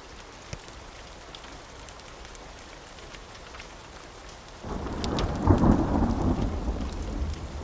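Steady rain with scattered sharp crackles from a fireplace, then a thunderclap breaks in a little past halfway. It swells to its loudest about a second later and rolls on as a low rumble.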